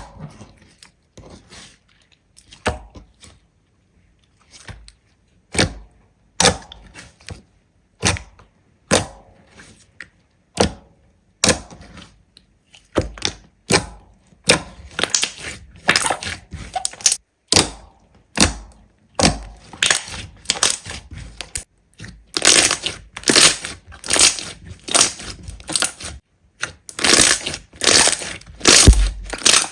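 Slime being handled, giving sharp crackling pops and clicks, sparse and irregular at first and coming thick and fast from about halfway.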